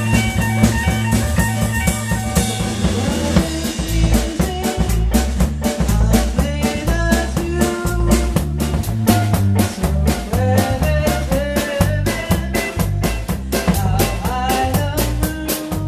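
Live blues band playing an instrumental passage: a drum kit keeps a steady beat over a bass line, with a lead melody of bending notes on top. The cymbal beat comes in about two and a half seconds in.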